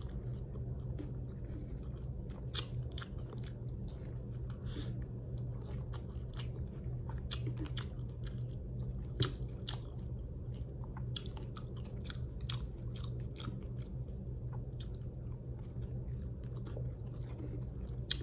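A person chewing food close to the microphone, with many short, sharp wet mouth clicks between bites, over a steady low hum.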